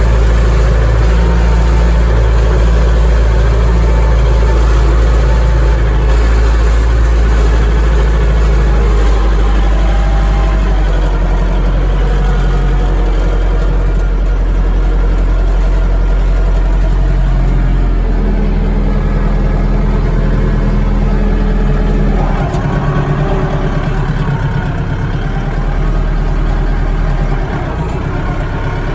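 Dongfeng DF-404 tractor's diesel engine running steadily while working. Its pitch shifts a few times, and it gets a little quieter in the last third.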